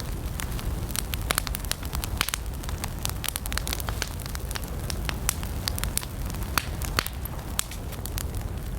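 Wood campfire burning, with frequent sharp crackles and pops over a steady low rumble of the flames.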